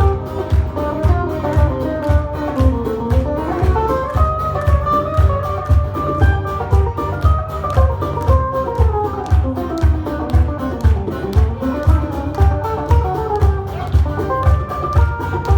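Acoustic soul band playing an instrumental passage of the song: plucked guitar melody over a bass line with a steady low beat about twice a second.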